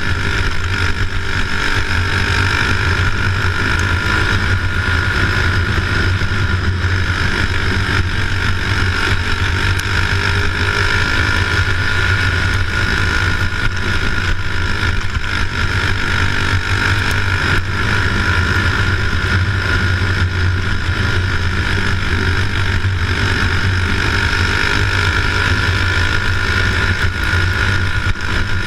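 A loud, steady engine-like drone with no change in pitch or level.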